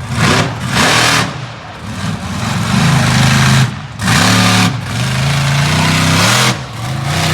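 Monster truck engine revving hard in repeated bursts while being driven through a freestyle run. Its pitch climbs and falls, with brief drops at the throttle lifts a few times.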